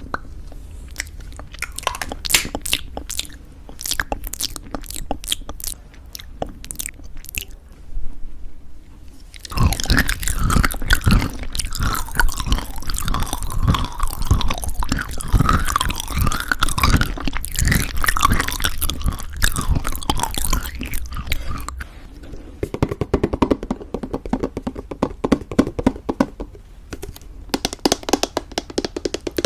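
Close-miked crunching and chewing of homemade granola in thick yogurt. A few scattered crisp crackles come first, then loud, dense crunching from about ten seconds in, easing into softer chewing after about twenty-two seconds.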